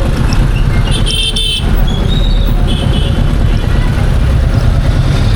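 Royal Enfield Meteor 350's single-cylinder engine running on the move, with a dense low rumble and road noise. A vehicle horn toots briefly about a second in, and again shortly before the middle.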